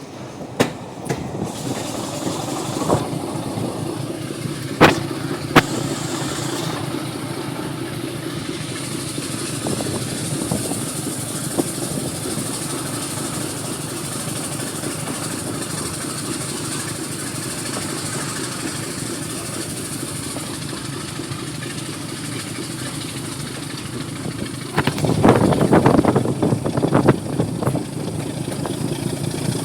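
Diesel locomotive engine running steadily, with a few sharp knocks about five seconds in and a louder, rougher surge for a couple of seconds near the end.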